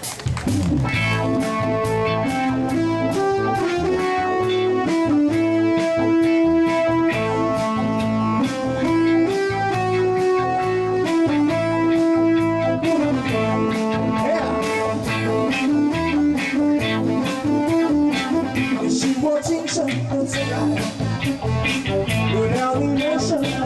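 Live band starting up and playing the instrumental introduction of a cha-cha song over a steady dance beat.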